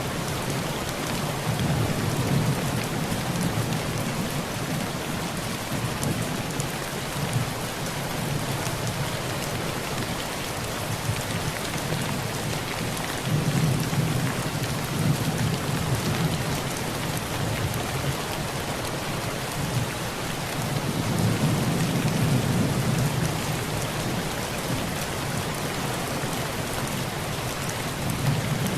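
Heavy rain falling steadily on a tin roof, with low rolls of thunder that swell and fade three times: near the start, about halfway through, and again later.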